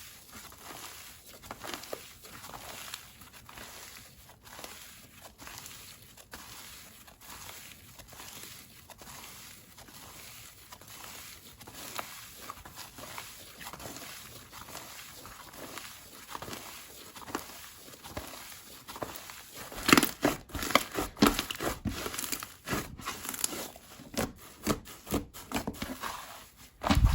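Hands playing with slime: soft, quick sticky crackles and clicks, becoming much louder and sharper pops and crackles from about twenty seconds in as the slime is pressed and stretched.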